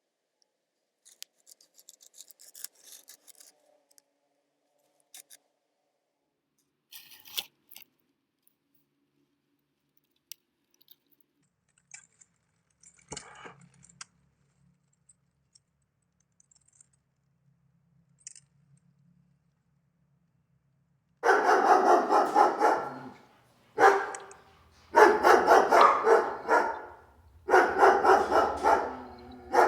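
A dog barking in three long rapid runs in the last several seconds, loud, after a stretch of faint clicks and rustles.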